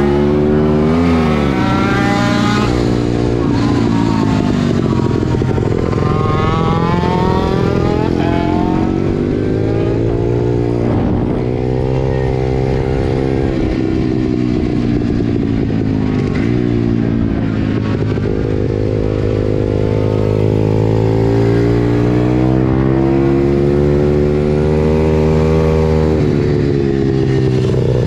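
Pit bike engine running throughout, its pitch rising and falling several times as the throttle is opened and closed.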